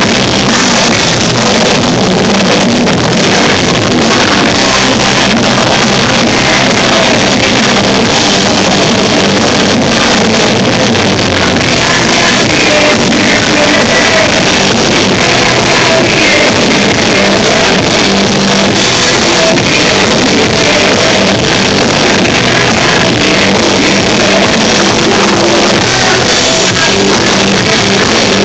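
Rock band playing live at full volume: distorted electric guitars, drums and singing, heard loud and harsh through a phone's microphone.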